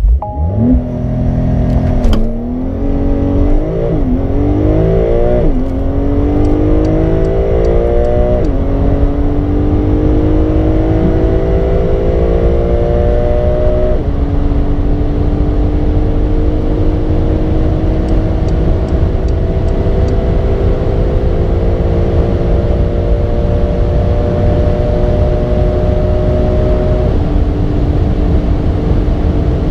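Porsche 992 Carrera 2S's twin-turbo flat-six under full throttle from a launch-control start, rising in pitch through each gear, with about six quick dual-clutch upshifts that drop the pitch, each gear lasting longer than the last. Road and wind noise build beneath the engine as speed climbs.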